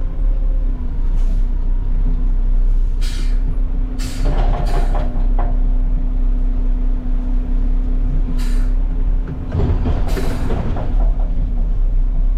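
Garbage truck's diesel engine running steadily, with several short hisses of air from its air brakes and air system.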